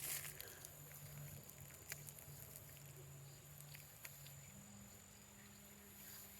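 Near silence: faint outdoor ambience with a few soft clicks and a thin, steady high whine.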